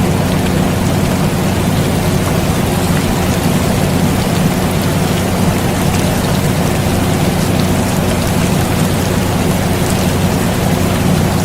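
Steady rain noise mixed with the constant running hum of an air conditioner, holding an even level with no change.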